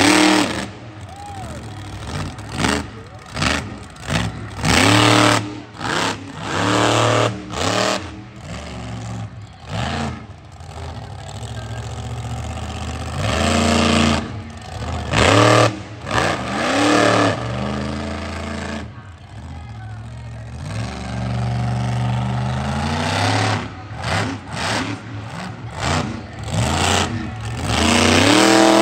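Monster truck engine revving hard in repeated bursts, its pitch climbing and falling again and again, with many sharp bangs in between.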